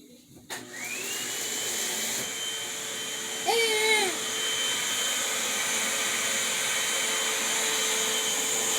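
Vacuum cleaner switched on about half a second in: its motor whine rises as it spins up, then it runs steadily. A short high voice-like cry rises above it about three and a half seconds in.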